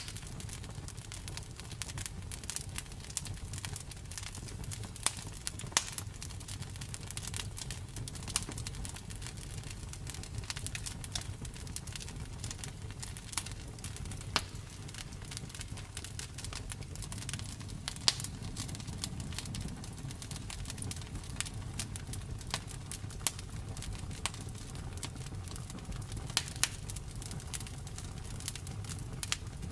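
Wood fire crackling and popping: a steady low rumble of burning with irregular sharp snaps, a few louder pops among them.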